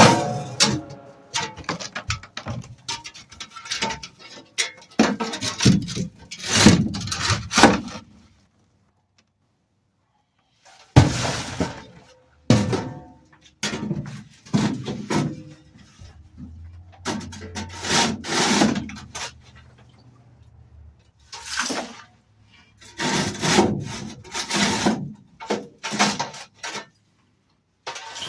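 Irregular scraping, rustling and knocking as rat droppings and nest debris are cleared off a truck floor, with a silent pause of about three seconds a third of the way in.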